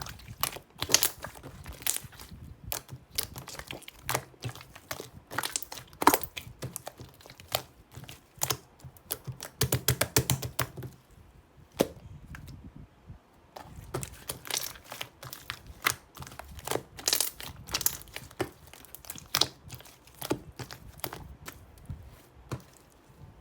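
Irregular crinkling, tapping and clicking of small things being handled close to the microphone, with a short lull about twelve seconds in.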